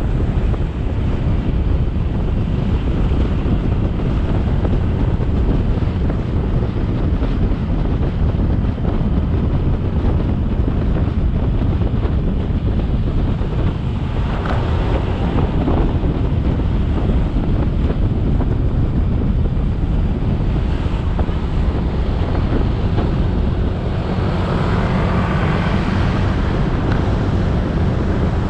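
Wind buffeting an action camera's microphone on a moving motorbike, over the bike's engine and road noise. The noise is steady, swelling briefly about halfway through and again near the end.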